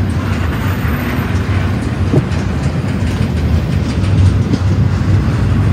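Double-stack intermodal train's loaded well cars rolling past at close range: a steady, loud low rumble of steel wheels on rail, with faint clicks scattered through it.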